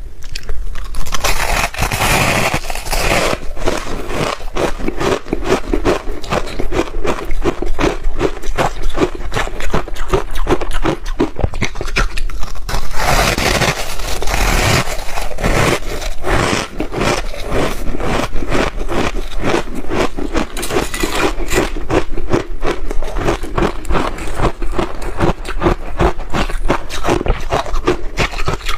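Crunchy ice being chewed: loud, rapid crunching and cracking, one bite after another with no pause.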